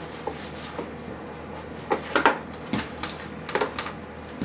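A few short clicks and knocks of hard objects being handled, bunched in the middle of the stretch over a low steady background hum.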